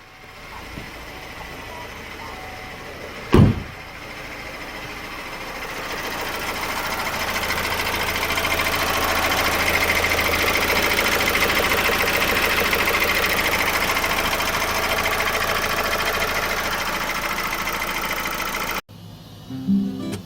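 Chevrolet 1.6 diesel engine running with a fast, fine ticking rattle. This is the abnormal noise the car was brought in for, which the workshop puts down to the timing chain. The sound grows louder over the first several seconds, holds, then cuts off suddenly near the end; a single sharp knock comes a few seconds in.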